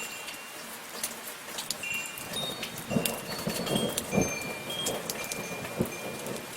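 Steady soft rain with pattering drops, while wind chimes ring short high tones over it. From about two and a half seconds in, a run of louder, lower knocks sounds for a few seconds among the drops.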